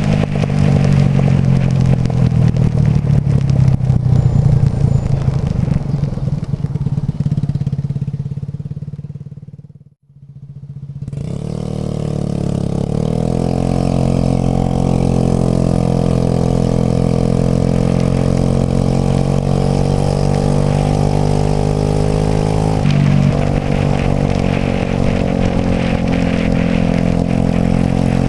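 Suzuki Burgman AN125 scooter's single-cylinder engine running on the move, a steady engine note. The sound fades out to silence about ten seconds in and fades back up over the next few seconds. The engine note shifts briefly about eight seconds before the end.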